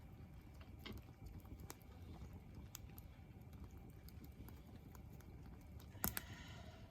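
Campfire crackling faintly, sparse sharp pops over a low rumble, with one louder pop about six seconds in followed by a brief rasp.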